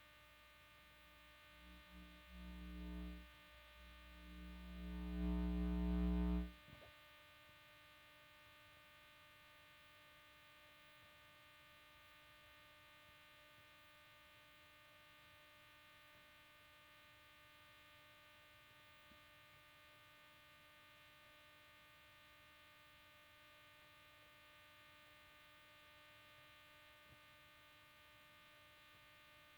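Steady electrical hum with many overtones. A louder low hum swells up twice in the first few seconds and cuts off abruptly about six and a half seconds in.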